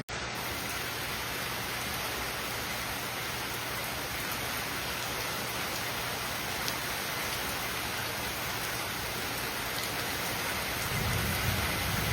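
Heavy rain falling steadily, with a low rumble of thunder near the end.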